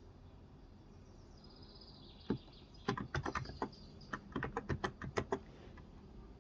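Typing on a Cox Endeavor electro-capacitive (contactless) 35 g tenkeyless keyboard: a quick burst of about fifteen keystrokes starting a little over two seconds in, with faint birdsong behind.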